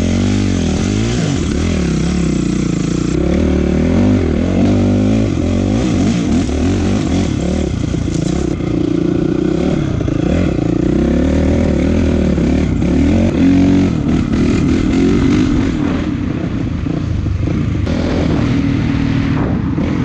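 Honda CRF450 dirt bike's single-cylinder four-stroke engine under way, revving up and falling back over and over as the throttle is worked.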